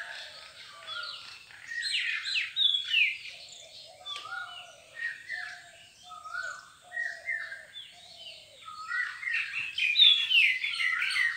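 Birds chirping and calling: many short, quick notes overlapping, with a lower run of short repeated call notes in the middle.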